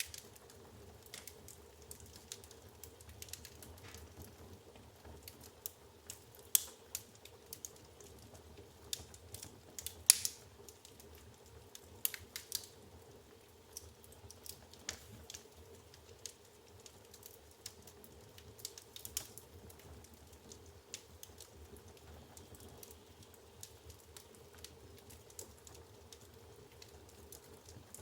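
Wood logs burning in a fireplace, crackling with irregular small pops and snaps, with a few louder snaps about six and ten seconds in.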